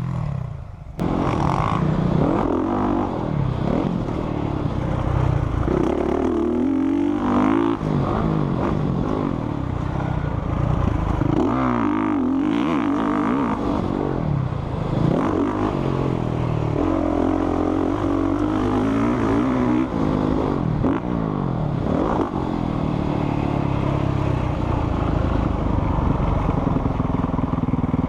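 Motocross motorcycle engine being ridden hard, its pitch climbing and dropping again and again as the throttle is opened and closed.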